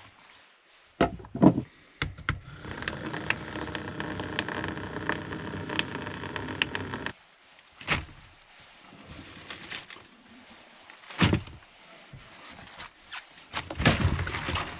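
Water running steadily into a collapsible sink for about five seconds, then cutting off suddenly, with knocks and clatter of kitchenware being handled before and after.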